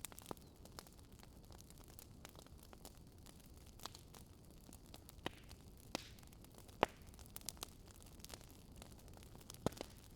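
Wood fire crackling: a low steady hiss with irregular sharp pops and snaps, a louder pop near the middle and two close together near the end.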